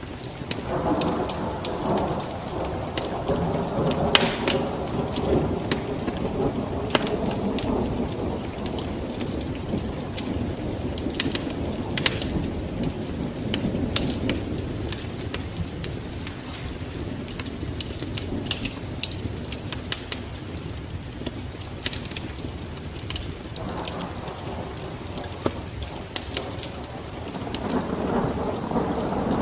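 Rain falling steadily, with many sharp pops and crackles scattered through it. Low rumbles of thunder swell up twice: for several seconds near the start, and again near the end.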